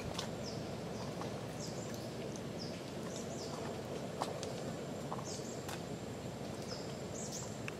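Short, high bird calls repeated about once a second, each a quick swooping chirp, over a steady low background rumble.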